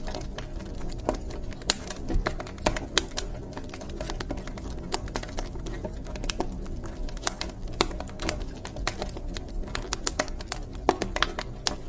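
Wood fire crackling in a fireplace: irregular sharp pops and snaps, some louder than others, over a low steady rumble of burning.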